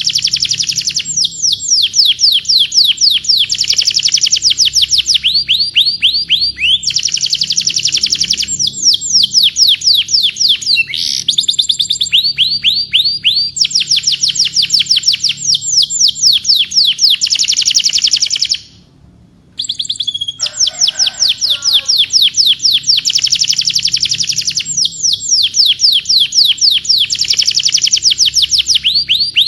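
Domestic canary singing a long, loud song of rapid trills: each phrase is a fast run of identical sweeping notes, and the phrase changes every second or two. The song stops for about a second just past halfway, then resumes.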